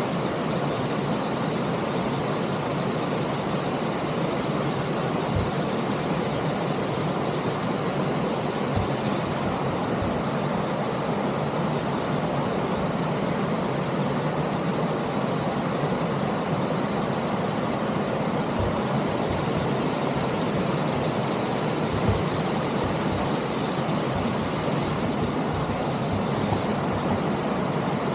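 Steady rush of wind on an action camera's microphone and bike tyres rolling over a dirt trail during a ride, with a few short knocks from bumps in the trail.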